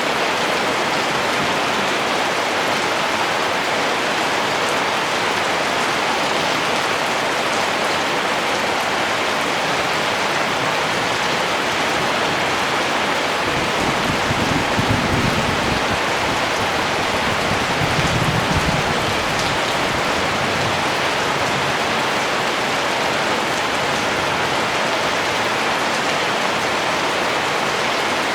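Steady rain falling, an even, dense hiss. A little past the middle, a short low rumble swells twice.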